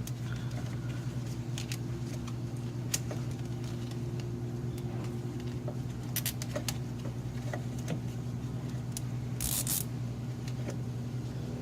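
Steady low hum with scattered light clicks and rattles of hand work on parts, and a short rasp about nine and a half seconds in.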